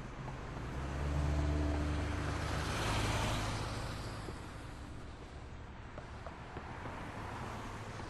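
A motor vehicle passing close by in street traffic: its low engine hum builds, the tyre and road noise peaks about three seconds in, then fades into the steady background of city traffic.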